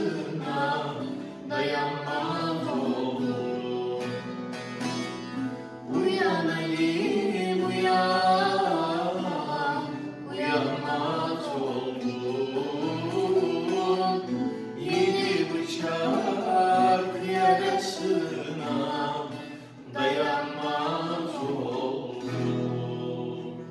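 Two voices singing a Turkish folk song (türkü) in a duet, in long bending phrases, over strummed guitar and plucked bağlama; the music fades down near the end.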